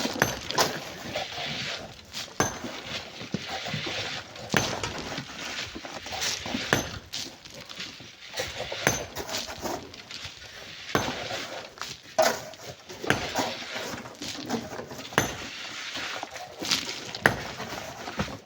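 Irregular sharp knocks and clinks over a gritty scraping hiss: hand tools striking and scraping sand and stone.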